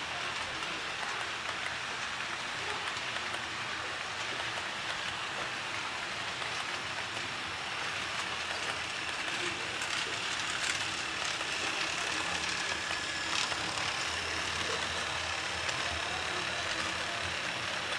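Model train running along the layout's track: a steady rushing rattle of wheels on rail, with a faint thin whine coming in during the second half.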